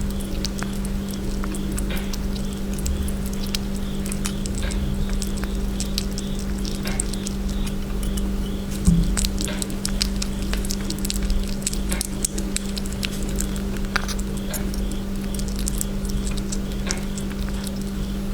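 A sugar glider nibbling and chewing a snack: many small irregular clicks and crackles, with one louder knock about nine seconds in, over a steady low hum.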